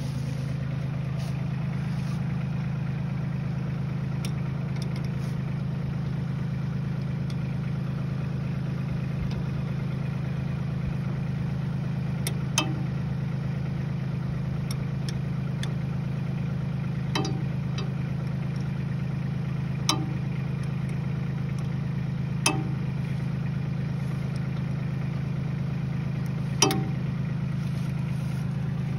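Diesel tractor engine idling steadily, with five short sharp clicks spread over the second half.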